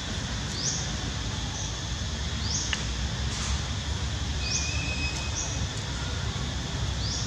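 Outdoor background with a steady low rumble and a short, high, rising chirp repeating every second or two, like a small bird calling.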